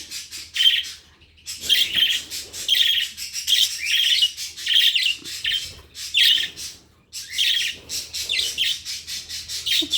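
A flock of pet budgerigars chattering and chirping, a dense, continuous warble of many overlapping calls. There are two short lulls, about a second in and around seven seconds.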